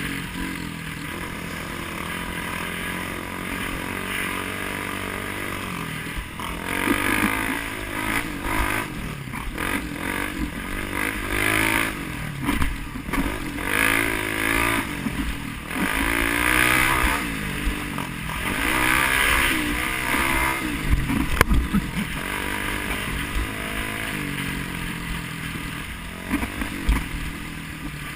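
A vehicle engine being driven hard, its pitch climbing and dropping again and again as the throttle is opened and closed, loudest through the middle stretch, with steadier running at the start and end.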